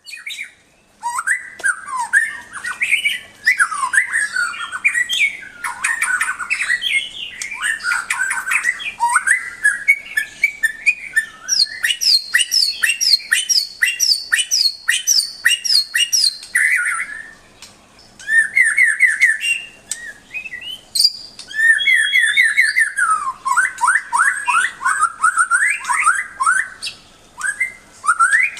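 White-rumped shama (murai batu) singing a long, varied song of clear whistles and fast runs of short repeated notes. It pauses briefly a couple of times in the middle, and rapid rattling series come around the middle and near the end.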